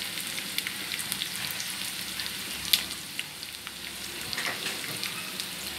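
Sliced onions, green chillies, mustard seeds and cumin seeds sizzling in hot oil in a pan. A steady hiss is broken by scattered small crackles as the mustard seeds begin to splutter, with one sharper pop a little past halfway.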